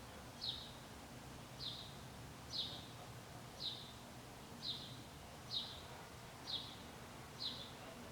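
A bird chirping: a short, faint, high chirp that falls slightly in pitch, repeated about once a second, over a faint low hum.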